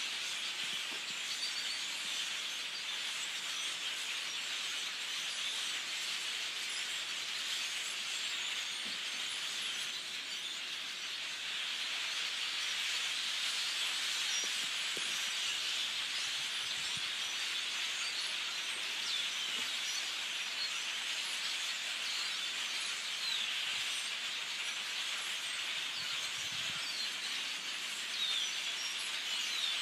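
A dense chorus of many small birds chirping and chattering at once, forming a steady, unbroken din of overlapping high calls.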